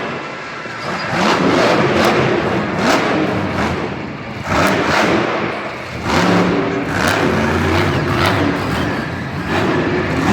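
Monster truck engine revving, rising and falling in several surges, with repeated sharp cracks through it.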